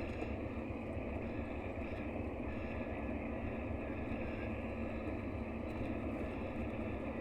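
Mercedes-Benz O-500RSD coach's diesel engine running steadily, an even drone with no change in speed or load.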